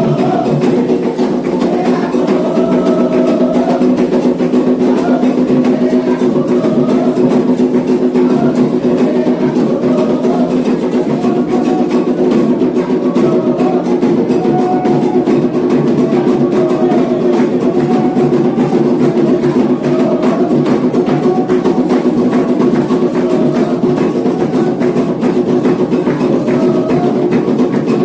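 Candomblé ritual music for Ogum: atabaque hand drums playing a dense, steady rhythm with a struck bell or wood-like percussion, and a wavering sung melody over them.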